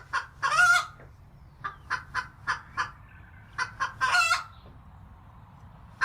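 Chicken (hen) clucking: a string of short clucks broken by two longer drawn-out calls, one about half a second in and one about four seconds in.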